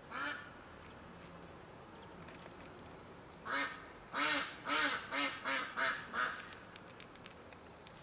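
A bird calling: one short call at the start, then a quick run of about seven calls in a row from about three and a half seconds in.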